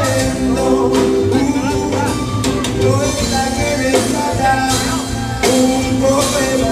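Live rock band playing a song, with a melody line over bass and drums.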